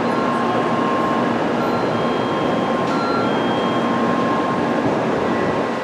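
Tokaido Shinkansen train moving along the platform: a steady rushing rumble of the train's running noise that eases off right at the end.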